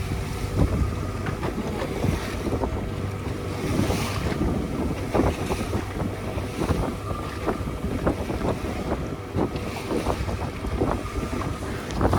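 A boat under way: a steady engine hum with water splashing and wind buffeting the microphone.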